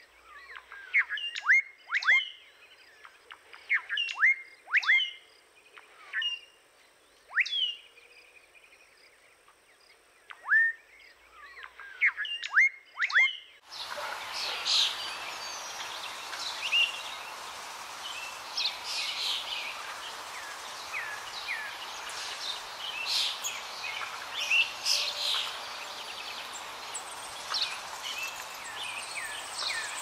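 Bird calls: sharp chirps that drop quickly in pitch, some single and some in quick clusters, with quiet gaps between. About 14 s in, the sound changes suddenly to a dense chorus of many birds calling over a steady hiss of forest ambience.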